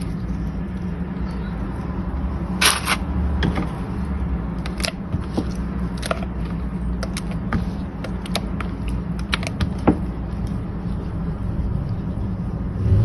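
Irregular light crackles and taps of chicken strips being pressed into crushed cornflake crumbs in a bowl, over a steady low hum.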